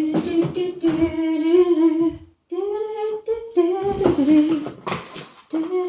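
A woman humming a tune to herself in long held notes, in short phrases with brief pauses, with some rustling and clatter about four seconds in.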